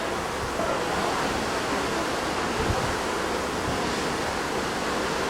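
Steady rush of ocean waves and wind, an even unbroken wash of noise.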